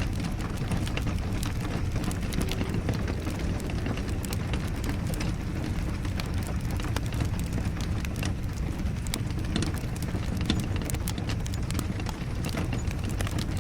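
Wood fire in a fireplace crackling, with many irregular sharp pops over a steady low rush of rain.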